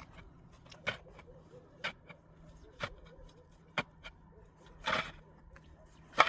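Sharp knocks at an even pace of about one a second, then a longer, scraping sound about five seconds in and a louder sharp knock near the end.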